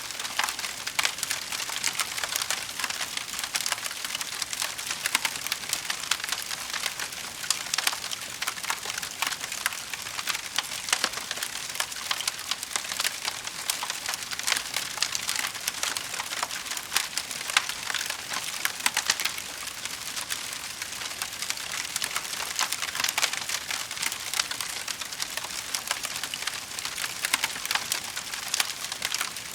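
Wood fire in a fireplace crackling steadily with dense small pops and snaps.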